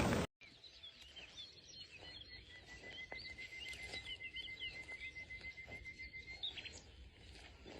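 Faint birdsong: many short, high chirps and a long, even trill holding one pitch for about four seconds. It follows a loud rushing noise that cuts off abruptly at the very start.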